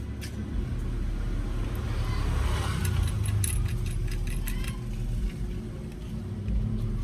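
A vehicle engine running with a steady low rumble, with scattered light clicks and clinks, a cluster of them about three to five seconds in.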